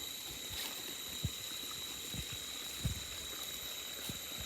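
Quiet outdoor ambience: a steady hiss with a thin, constant high-pitched drone, and a few soft low thumps spread through it.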